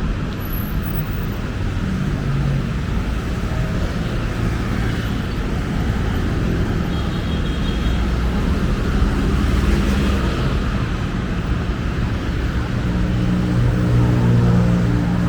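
Busy city road traffic: a steady rumble of passing motor vehicles, with a vehicle engine hum growing stronger near the end.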